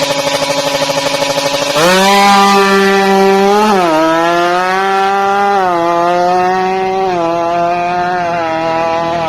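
Kawasaki Ninja R two-stroke motorcycle engine through a bamboo-style racing exhaust, idling with a rapid pulse, then revved up sharply about two seconds in and held high. The revs dip briefly, rise again and ease down in steps.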